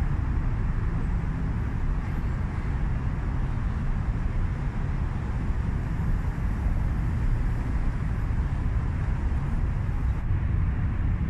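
Kawasaki KLX250's single-cylinder four-stroke engine running steadily at low speed while the dirt bike is balanced nearly stationary.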